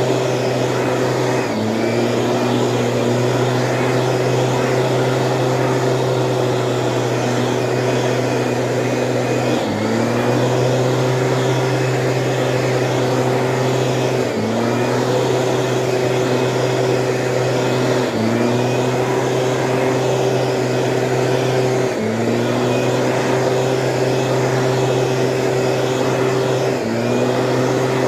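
Small two-stroke engine of a Stihl motorized sprayer running steadily, its speed dipping briefly and recovering about every four seconds.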